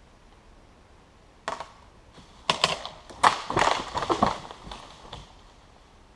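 Wood cracking and snapping: a burst of irregular sharp cracks and crackling from about a second and a half in, densest in the middle and fading out toward the end, as a sawn branch gives way.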